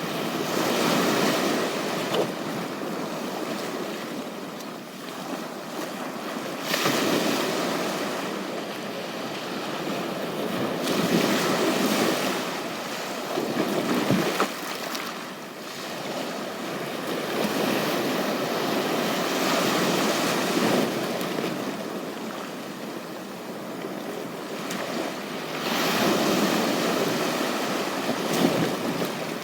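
Ocean waves breaking on a beach, the surf swelling and washing back in surges every few seconds.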